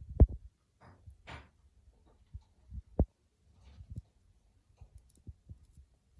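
Irregular dull knocks, the two loudest about a quarter second and three seconds in, with short rustles between them.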